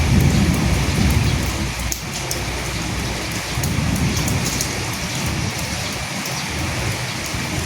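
Steady rain falling, with sharp patter of drops. A low rumble of distant thunder swells near the start and again about halfway through.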